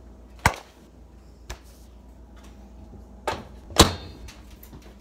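Sharp knocks and clicks from a microwave door opening and a mug being handled: a strong knock about half a second in, a lighter click a second later, and two knocks close together near the end, the last the loudest, with a brief ring.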